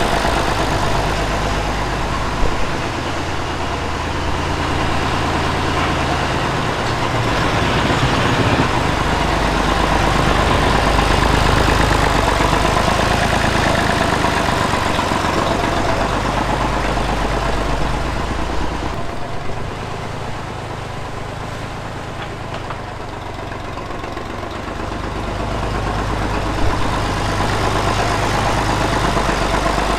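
Tractor engine running steadily. Its deep note drops away for several seconds about two-thirds through, then comes back.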